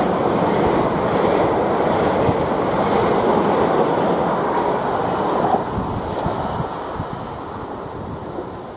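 Class 444 Desiro electric multiple unit passing close at speed: a loud rush of wheels and air with scattered clicks from the track. It fades away after about five and a half seconds as the last coach goes by.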